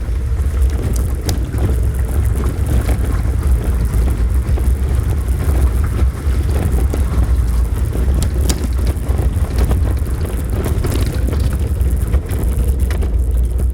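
A car driving along a road: a steady low rumble of engine and road noise, with scattered short clicks and knocks.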